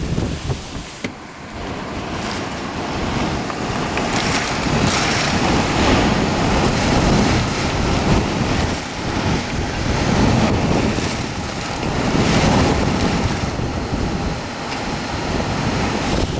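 Strong derecho wind and heavy rain, swelling and easing in gusts, with wind buffeting the microphone.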